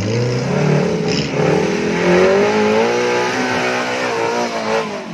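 Off-road 4x4's engine revving hard under load as it climbs a muddy slope. The pitch rises at the start, wavers with the throttle, and falls away near the end.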